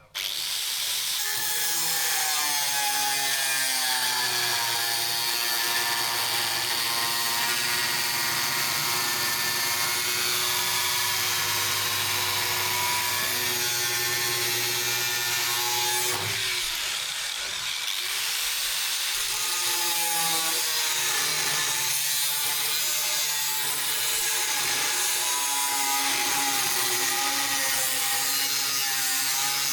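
Electric power tool running steadily while it works the steel of an old saw blade. It starts abruptly, and its pitch slowly sags and recovers as it bears on the metal, with a brief dip about halfway through.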